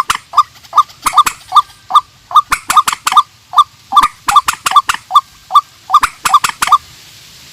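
A rail calling a fast series of short, clipped notes, about three a second, with sharp clicks among them; the calls stop near the end.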